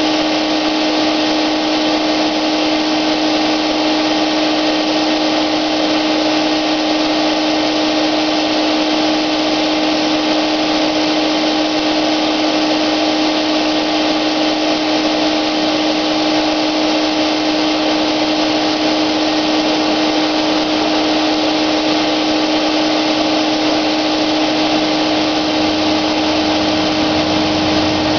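Wagner electric paint sprayer running steadily: a constant hum at one pitch over a hiss. A deeper rumble joins near the end.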